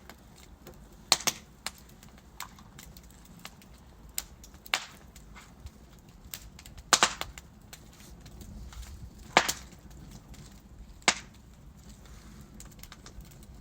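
Wood fire burning in a fireplace, crackling: irregular sharp pops and snaps from the burning logs over a faint low rumble of the flames.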